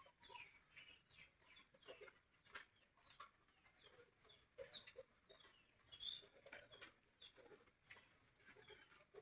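Faint bird calls: many short, scattered downward chirps with a few lower clucking notes.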